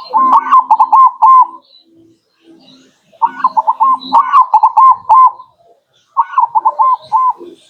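Zebra dove (perkutut) singing: three phrases of rapid staccato cooing notes, each phrase about a second and a half long with short pauses between. This is the song used as a lure to call in wild zebra doves.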